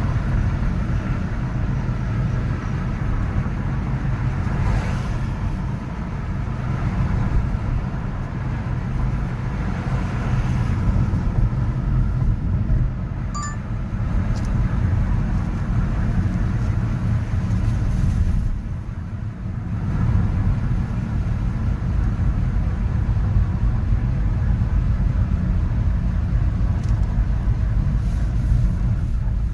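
Continuous city road traffic: a dense low rumble of engines and tyres, with individual vehicles swelling past and a brief lull about two-thirds of the way in.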